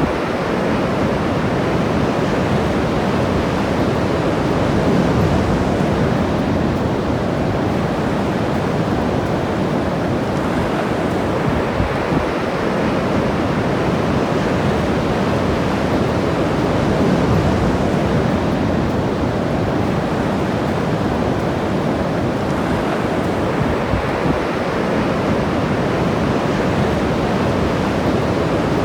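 Ocean surf breaking and washing up the beach: a steady, continuous wash of waves that swells a little louder a few times.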